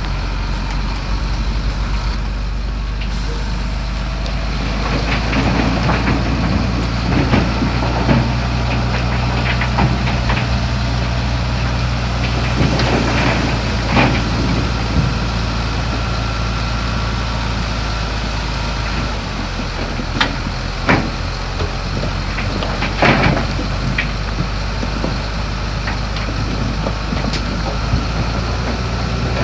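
Heavy diesel earthmoving machinery running steadily under load, with scattered sharp metallic clanks and knocks.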